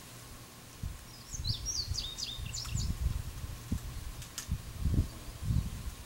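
A small songbird singing a quick twittering phrase of high gliding chirps a little over a second in, over low gusty rumbling of wind on the microphone. A sharp tick comes a little after four seconds, and a faint steady low hum runs underneath.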